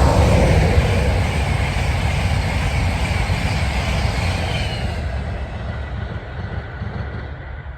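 A train passing close by and then moving away, its rumble loudest at the start, dropping in pitch as it goes past, then fading steadily.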